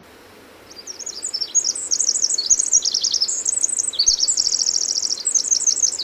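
Pacific wren singing: a long, rapid run of high trills and warbles that starts just under a second in and continues without a break.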